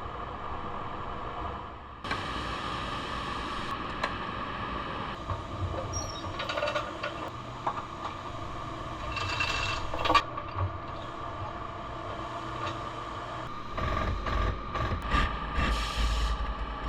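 A collision-repair pull on a car's quarter panel with a clamp and pulling equipment: a steady mechanical whine with scattered metallic clicks and clanks. A sharp metal knock comes about ten seconds in, and a heavier low rumble starts near the end.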